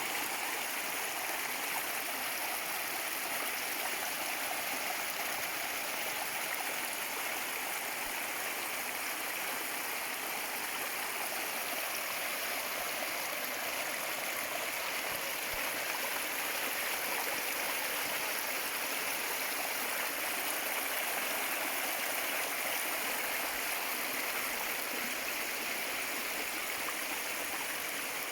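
Mountain stream rushing steadily over rocks, a constant even hiss of water without change.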